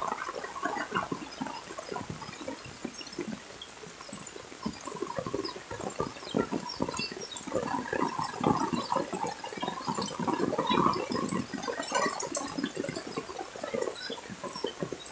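Rain falling outdoors, a dense uneven noise of water that swells and eases throughout.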